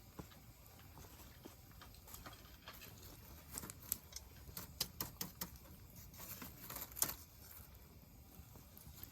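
Wood campfire crackling, with sharp irregular pops and snaps that come thicker in the middle of the stretch, the loudest one about two-thirds of the way through.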